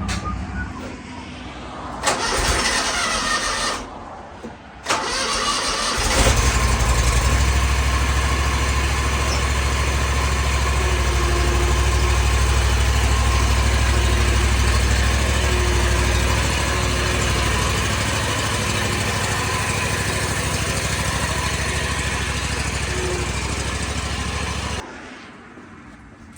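An engine starts about six seconds in and runs steadily, after a short rush of noise about two seconds in; the engine sound cuts off abruptly near the end.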